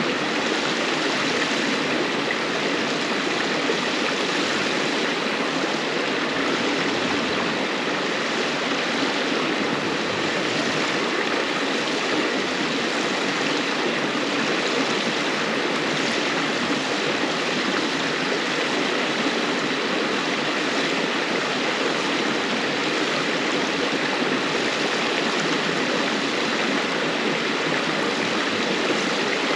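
River water flowing over stones: a steady, unbroken rush and babble of a stream.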